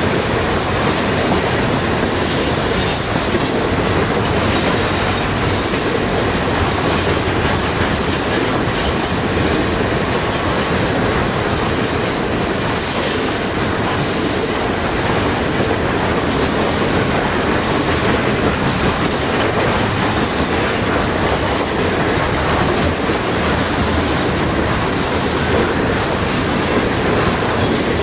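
Freight train cars rolling past at close range, a steady loud rumble of wheels on rail with brief high wheel squeals now and then.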